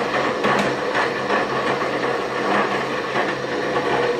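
Converted Craftsman 12-inch bandsaw running at slow speed, its 1/3 hp motor driving the blade through a 5-to-1 gear reducer and V-belt pulleys. A steady mechanical hum with a fine, continuous ticking from the drive.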